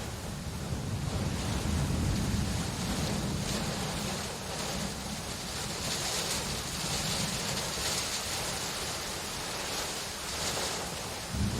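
Steady rain with a low rumble of thunder underneath; the hiss of the rain swells and eases in the middle. Just before the end a fresh roll of thunder comes in suddenly.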